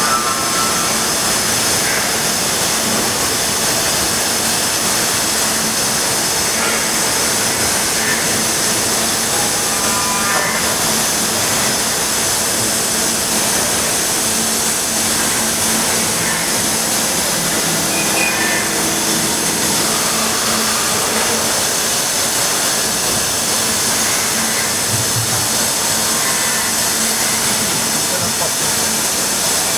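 Steady workshop machinery noise: an even hiss with a constant low hum. Faint, brief tones and what may be distant voices come and go.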